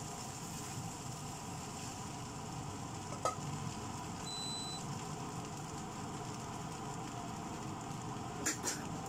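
Fried rice sizzling steadily in a wok, with a single knock about three seconds in as the wooden spatula is set down against the pan. A short high beep follows about a second later, and two sharp clicks come near the end.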